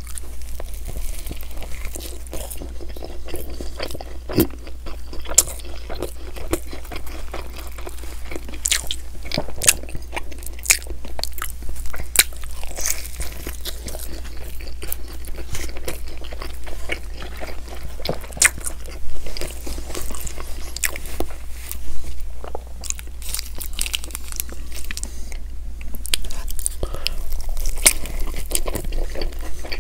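Close-miked eating of an English-muffin breakfast sandwich (McMuffin): repeated bites and chewing with many sharp crackles and mouth clicks, over a steady low hum.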